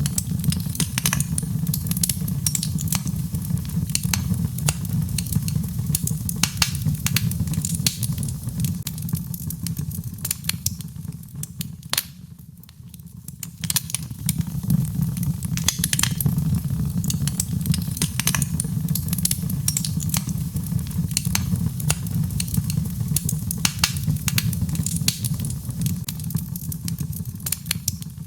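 Birch logs burning in a fireplace, crackling and popping in dense irregular snaps over a steady low rumble. The crackles thin out briefly a little before halfway through, then pick up again.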